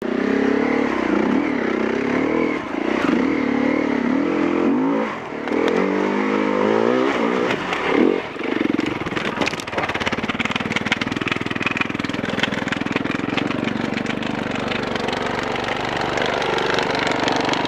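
Enduro motorcycle engine revving up and down in repeated surges for about the first nine seconds, then running at a steadier note with a dense rattle of rapid clicks.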